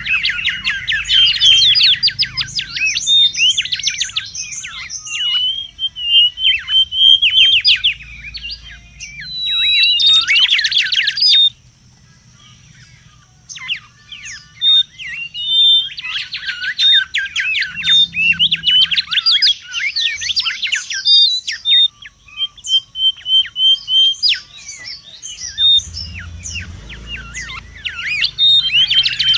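Mangrove whistler (kancilan bakau) calling excitedly: rapid runs of sharp, falling whistled notes in repeated bursts, broken by short runs of clear level whistles and a brief lull about halfway through.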